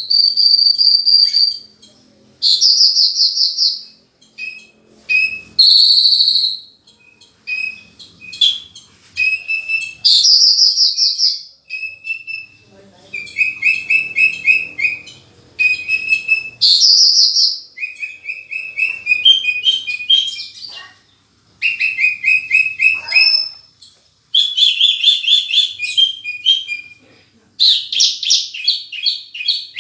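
Horsfield's bush lark (branjangan) singing vigorously: a long run of loud, varied phrases of clear whistles, fast trills and rapid chattering notes with short pauses between them, the song filled with imitations of other birds' calls.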